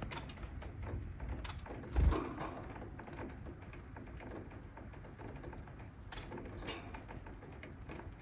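Steady rain patter with one dull thump about two seconds in, and a couple of sharp clicks later on.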